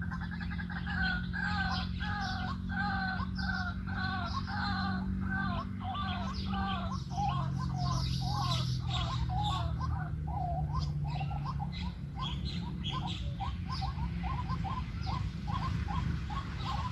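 White-breasted waterhen calling: a long run of repeated croaking notes that grow faster over the second half, over a steady low hum.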